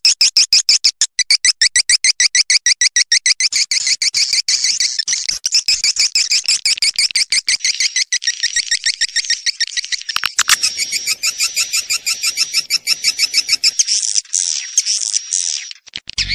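Swiftlet lure call: a rapid, high-pitched twittering of swiftlet chirps, about eight a second, played as a calling track to draw swiftlets into a nesting house. About ten seconds in the pattern shifts to a higher, denser twitter, and near the end it breaks into separate chirps.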